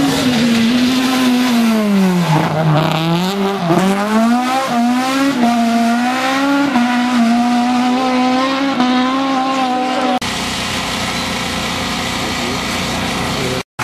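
Rally car engine running hard. Its revs drop about two to three seconds in, then climb again through a series of gear changes. About ten seconds in, the sound cuts abruptly to a lower, steady running noise.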